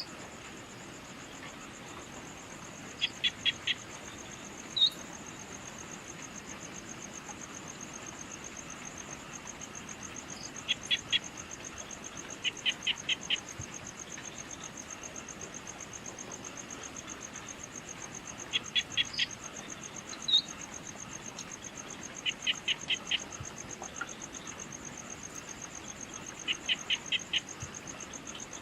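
Evening insect chorus: a steady, rapidly pulsing high-pitched trill. Every few seconds an animal gives a quick run of four or five short calls. A single sharp chirp, the loudest sound, comes twice.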